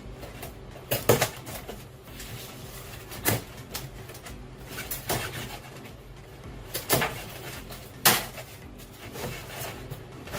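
Cardboard box and packing material being handled and pulled out: a handful of scattered knocks and clunks with softer rustling between them, over a low steady hum.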